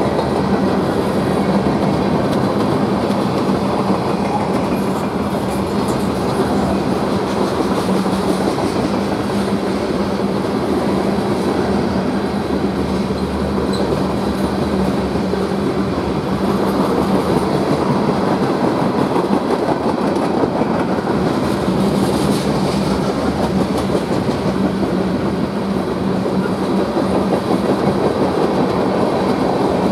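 A freight train's cars rolling past at speed: a loud, steady rumble of steel wheels on the rails with a constant low hum, and no horn or bell.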